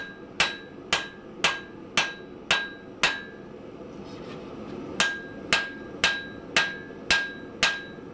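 Hand hammer striking steel on an anvil, about two blows a second, each blow with a short ring; a run of seven blows, a pause of about two seconds, then six more. Blacksmith forging, drawing out a bar to make a post vise spring.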